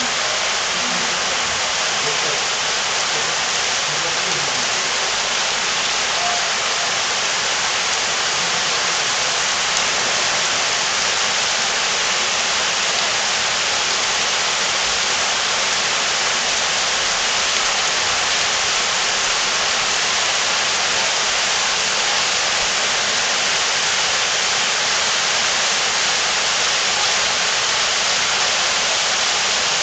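Heavy rain pouring down, a dense, steady hiss with no breaks.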